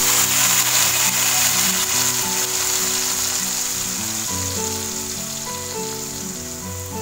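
A chopped chili, shallot and garlic spice paste sizzling in hot oil in a wok, loudest at first and slowly dying down as the paste fries. Background music plays underneath.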